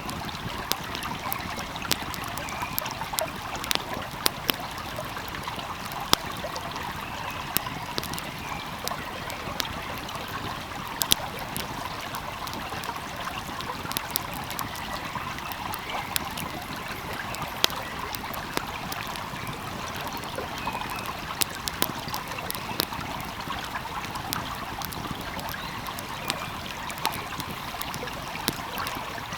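Stream flowing steadily, with a wood fire crackling over it in sharp, irregular pops.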